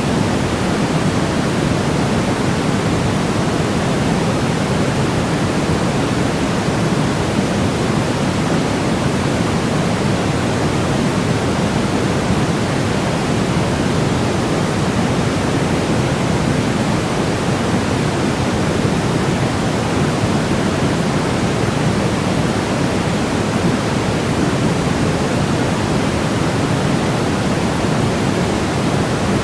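Steady, unchanging white noise for baby sleep, heavier in the lows and low mids than in the highs, like pink noise. It runs without any break or change.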